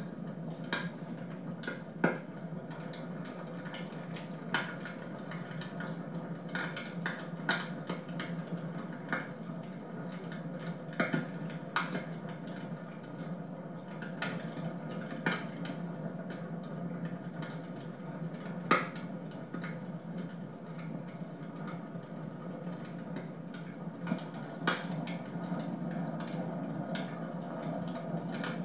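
Wood fire burning in a fireplace, crackling with irregular sharp pops over a steady low rush of the flames; a few pops stand out louder, one about two seconds in and one about two-thirds of the way through.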